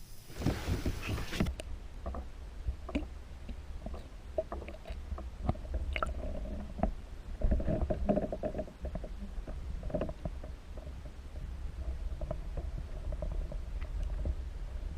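Scattered light knocks and clicks of handling inside a kayak over a steady low rumble, after a brief hiss at the start.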